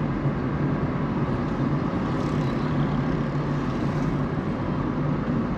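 Car driving in city traffic: steady engine hum and road noise.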